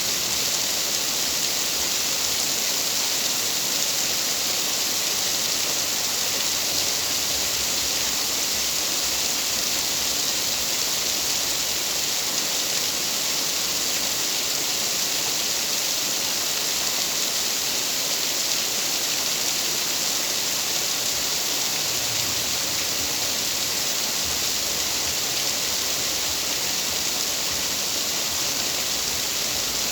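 Steady, even rain hiss with no distinct drops or pauses.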